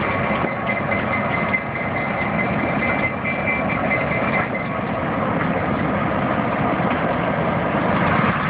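EMD diesel locomotive engine running, with a steady high whine over it that fades out about halfway through.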